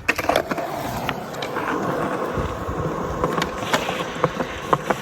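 Skateboard wheels rolling steadily over pavement, with several sharp clacks and knocks from the board along the way.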